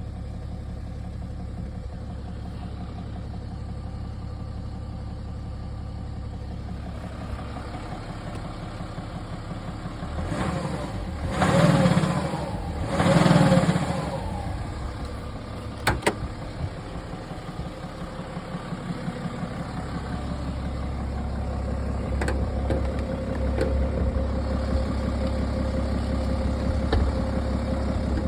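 BMW 330d's N57 three-litre straight-six diesel idling with a regular knock, revved briefly twice about halfway through. The uploader suspects the knock comes from an injector nozzle.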